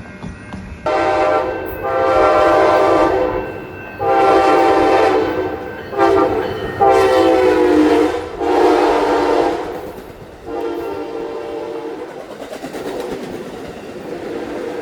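Locomotive air horn sounding a series of long and short blasts, loud, as a train approaches and passes. It then carries on more quietly over the train's rumble for the last few seconds.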